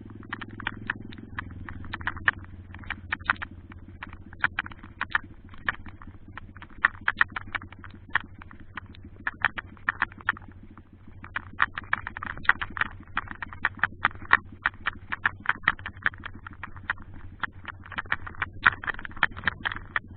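Pitbike engine running steadily with a low hum, under many sharp, irregular clicks and rattles, several a second.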